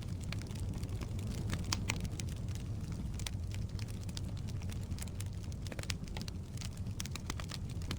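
Firewood burning in a fireplace: irregular crackles and sharp pops over a steady low rumble of the flames.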